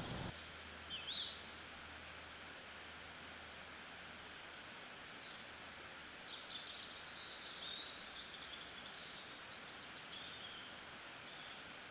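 Birds chirping and singing faintly over a steady outdoor hiss, the calls coming in scattered short phrases, most of them in the second half.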